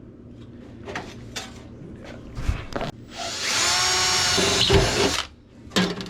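A handheld power tool runs for about two seconds in the middle, a steady motor whine, with light knocks and clatter of handled metal and tools before and after it.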